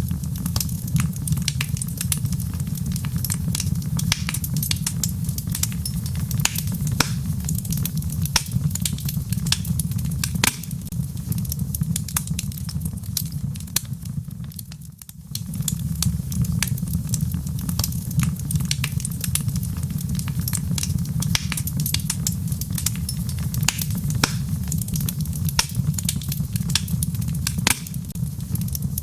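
Wood fire in a fireplace, logs crackling with frequent sharp pops and snaps over a steady low rumble of the flames. The sound dips briefly about halfway through.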